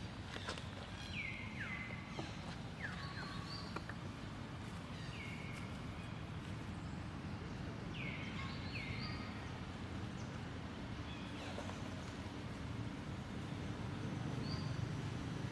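An animal's short, high calls that fall sharply in pitch, several in quick pairs, over a steady low rumble of background noise.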